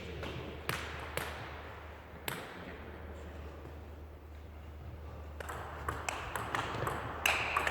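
Table tennis ball clicking: a few single bounces early on, then a quick rally of the celluloid-plastic ball striking bats and table from about five and a half seconds in.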